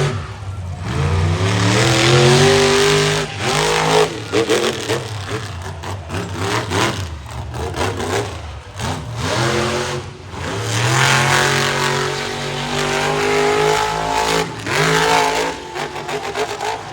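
Monster truck engine revving hard again and again, the pitch rising and falling back several times, with short drops off the throttle between bursts.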